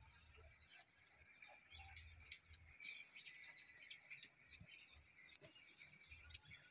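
Faint bird chirping: many short, high chirps throughout, with scattered light clicks.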